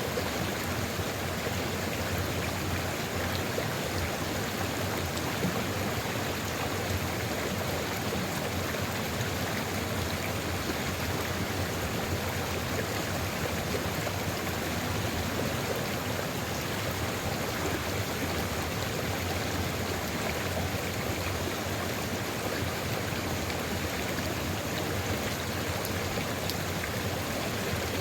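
Sulfur river flowing, a steady, even rush of running water with no change in strength.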